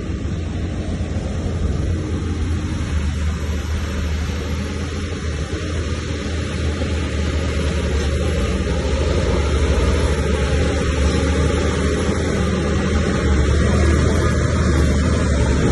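Heavy diesel engine of earthmoving machinery running steadily, with a strong deep hum.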